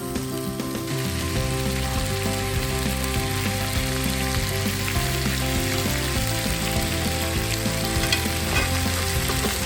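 Seasoned brown trout sizzling as it fries in a pan, a steady sizzle throughout.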